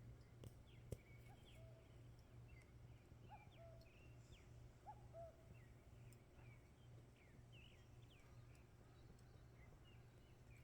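Faint outdoor ambience of birds chirping, many short scattered calls with a few lower calls among them, over a steady low hum. There are a couple of sharp clicks in the first second.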